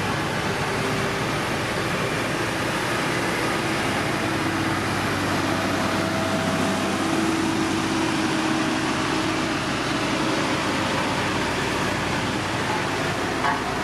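Diesel engine of heavy road-building machinery running steadily under a constant noise, with one short click near the end.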